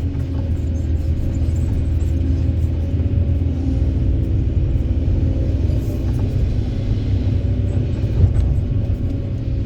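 Heavy diesel engine of construction machinery running steadily, a deep low rumble.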